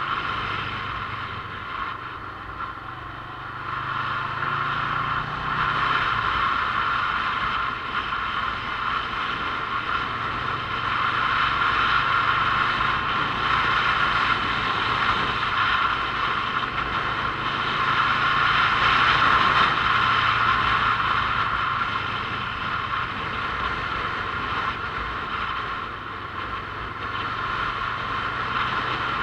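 Motorcycle running on the road, its engine note shifting up and down with the ride, over a steady mechanical drone.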